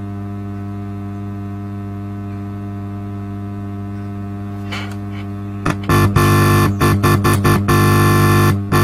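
Quad 303 power amplifier's faulty channel putting a steady mains hum through its speaker while run on reduced supply voltage. About six seconds in, music starts playing loudly through the amplifier, breaking off briefly a few times.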